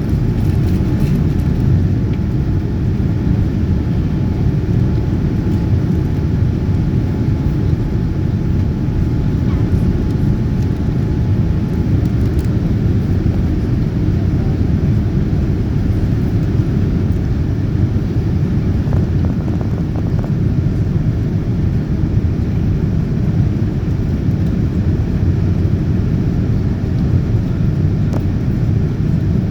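Steady cabin roar of a Boeing 787-9 airliner in flight, mostly low engine and airflow noise, with the Rolls-Royce Trent 1000 engines at climb power. A faint steady tone sits over the roar for the first ten seconds or so, then fades.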